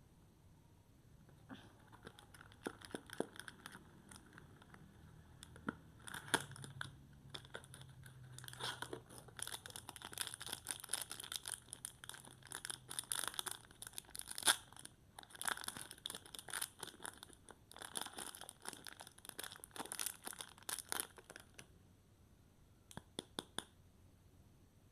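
Soap wrapper being torn open and crinkled by hand, in irregular bursts of crackling and rustling. It stops a few seconds before the end and is followed by a few light clicks.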